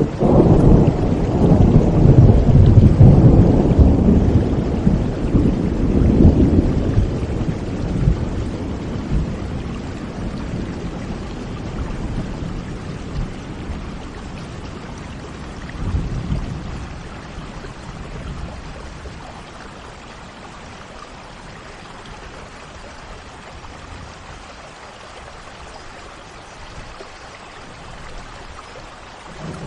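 Thunder rolling over steady rain: a loud low rumble at the start that fades away over several seconds, and a smaller rumble about sixteen seconds in, all over the even hiss of rainfall.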